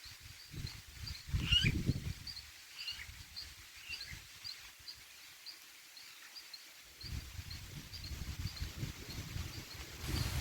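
Wind gusting across the microphone in low rumbles, dying down mid-way and picking up again near the end. Over it a short high chirp repeats about twice a second, and a bird gives a couple of falling calls early on.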